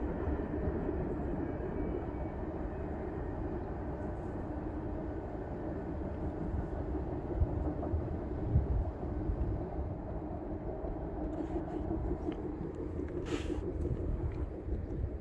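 Distant freight train running on the rails, a steady low rumble of wheels and cars. There is a brief hissing rustle near the end.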